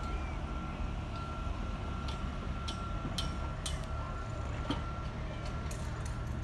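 A train running slowly, heard from on board: a steady low rumble with a thin steady whine over it and irregular sharp clicks and knocks, the wheels going over rail joints.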